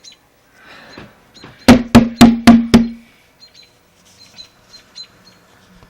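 Five sharp knocks in quick succession, each with a short ringing hum, followed by faint, high bird chirps.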